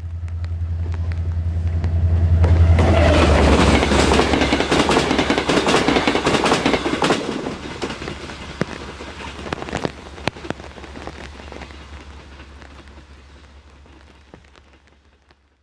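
A New Mexico Rail Runner Express commuter train, a diesel locomotive with bi-level coaches, passes at speed. The locomotive's low drone is loudest about three seconds in and drops in pitch as it goes by. Then the roar of the train fades away, with wheels clicking over jointed rail.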